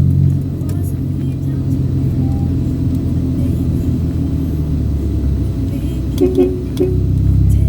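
A car driving, heard from inside the cabin: a steady low engine and road rumble. Around six seconds in, a brief pitched sound rises above it.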